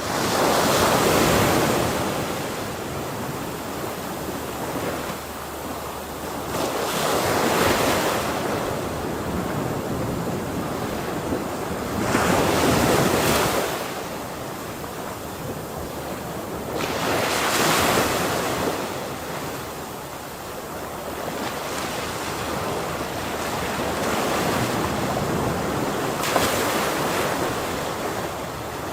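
Ocean waves breaking on a shore: five waves crash in turn, each swelling up and washing back over a couple of seconds, over a steady rush of surf.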